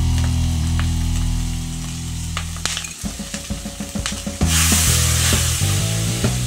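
Ground pork, tomato and onion frying in a wok, with clicks from a stirring utensil. About four and a half seconds in, a loud sizzle bursts up and keeps on as liquid hits the hot pan and throws up steam.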